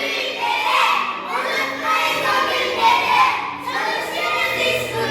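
A group of children's voices chanting or singing together in unison, in loud phrases of about a second each.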